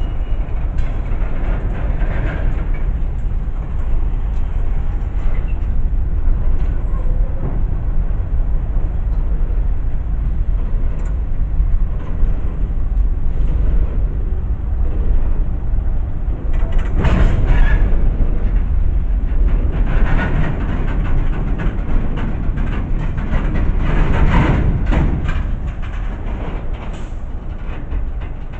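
CSX coal train of steel coal cars rolling past at close range: a heavy steady rumble of steel wheels on rail, with many clanks and knocks, and louder surges of clattering a little past halfway and again later on.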